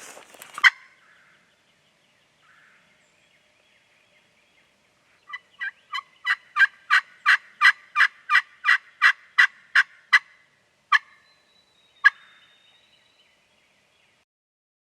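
Turkey yelping, most likely from a hunter's turkey call: a sharp single note about half a second in, then a long run of about fifteen evenly spaced yelps at about three a second, followed by two more single yelps.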